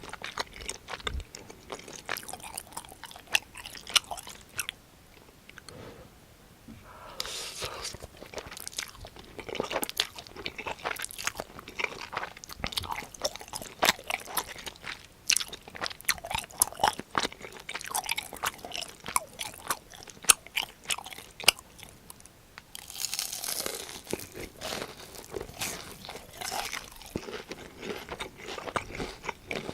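A person eating close to the microphone: many sharp, crisp crunching bites and chewing of food such as breaded pork cutlet. Two longer hissing stretches come about a quarter of the way in and again about three-quarters of the way through.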